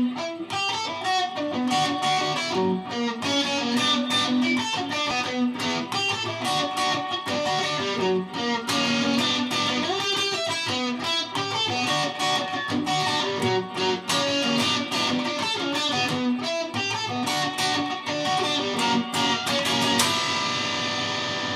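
A guitar plays a verse idea as a quick run of separately picked notes. About twenty seconds in, a final chord is struck and left to ring.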